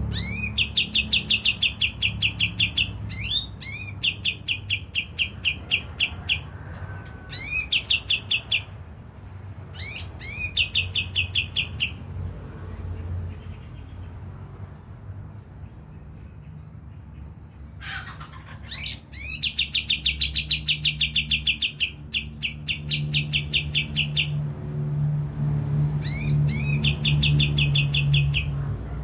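Kapas tembak songbird calling in repeated bursts of fast, rattling rising notes, each burst lasting one to three seconds, about six in all with pauses between; the longest and loudest comes about 19 seconds in. A low hum runs underneath, and a thin steady high tone joins near the end.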